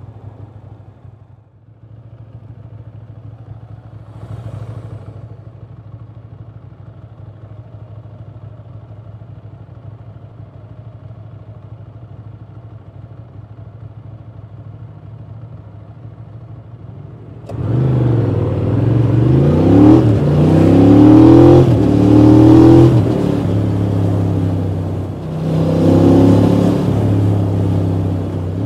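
Ducati Monster 620 i.e.'s air-cooled V-twin idling steadily, then about two-thirds of the way in pulling away hard. The engine revs up through the gears, with its pitch rising and dropping at each shift, before settling into a steady cruise.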